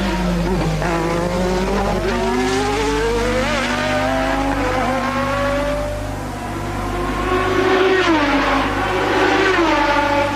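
1988 Formula One car engine at racing speed. Its pitch climbs steadily over several seconds, then drops sharply about eight seconds in and again near the end as the car lifts off and shifts down.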